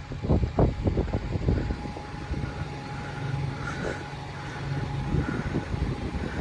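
Steady low vehicle engine hum, with gusts of wind buffeting the microphone through the first couple of seconds.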